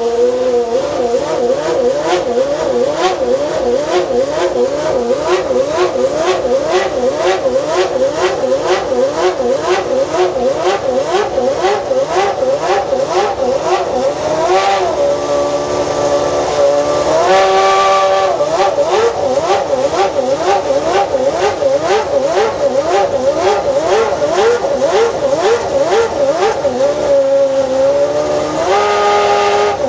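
McLaren-Mercedes MP4/15 Formula 1 car's 3.0-litre V10 running in quick, repeated throttle blips, about two a second, the pitch jumping up and falling back each time. Twice around the middle and once near the end the revs are held higher for a second or so before dropping back.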